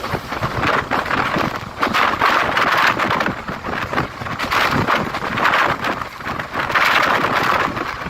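Train in motion: a steady, uneven rush of wheel and running noise with wind buffeting the microphone.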